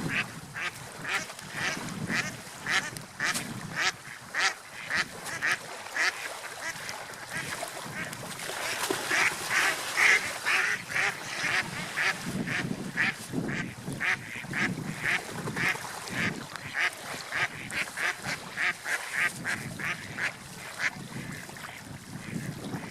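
Ducks quacking in a long run of short calls, about two or three a second, loudest in the middle, over a steady wash of water and wind.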